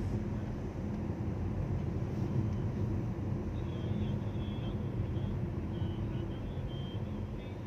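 City street traffic: a motor vehicle's engine running steadily close by.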